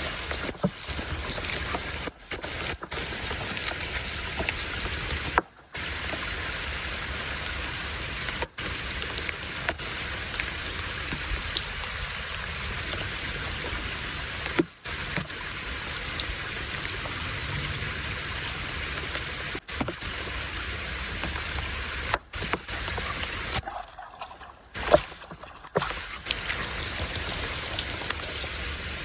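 Steady patter of rain with no pitched sound in it, broken several times by brief dropouts.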